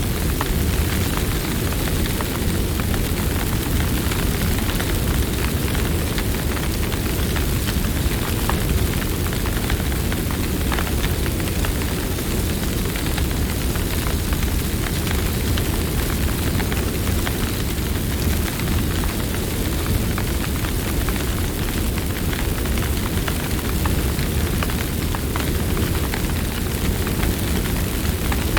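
Campfire burning, with a steady low rush of flame and frequent small crackles and pops of wood.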